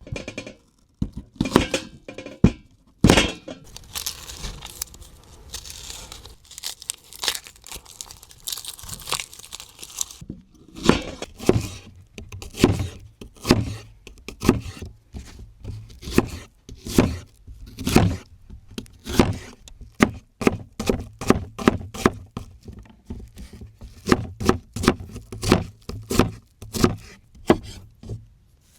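Crunchy tearing and crinkling, then from about ten seconds in a steady run of crisp knife strikes on a wooden board, two to three a second: chopping ingredients for a camp meal.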